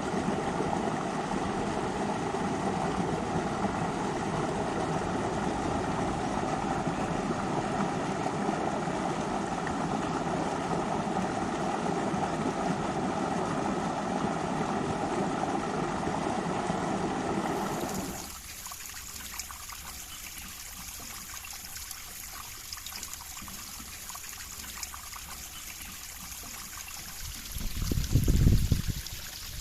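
River water rushing steadily. About eighteen seconds in it cuts to a quieter, hissier trickle of flowing water, with low rumbling thumps near the end.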